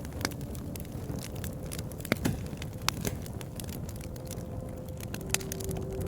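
Bonfire crackling, with frequent sharp snaps and pops over a steady low rumble of burning wood. Faint held tones come in near the end.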